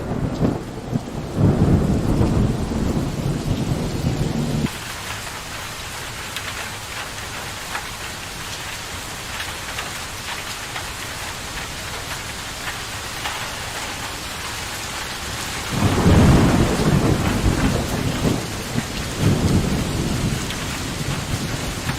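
Steady heavy rain with rolls of thunder. A low rumble of thunder cuts off suddenly about five seconds in, leaving only the rain hiss, and a new roll of thunder comes in about three-quarters of the way through.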